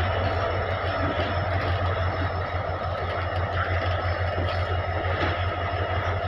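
Indian Railways goods train running, a steady low rumble with a faint constant hum above it.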